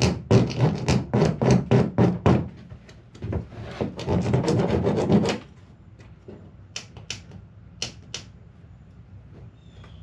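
Hand rasp filing a plastic kayak hull in quick back-and-forth strokes, about three a second, then one longer rub about four seconds in, after which it goes quieter with a few light scrapes. The rasp is smoothing down a raised mound in the hull so a keel protector can sit flat.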